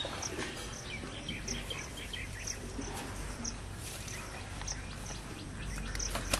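A bird chirping: short, high chirps repeated irregularly, roughly one a second, over a faint outdoor background.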